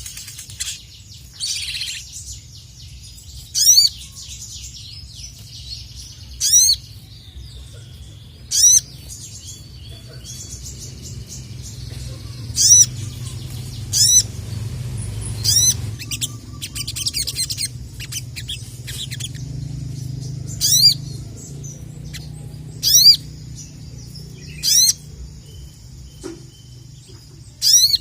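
A sogon (sogok ontong) sunbird singing: loud, sharp, high-pitched calls repeated about every two seconds over quieter continuous twittering, with a low steady hum underneath.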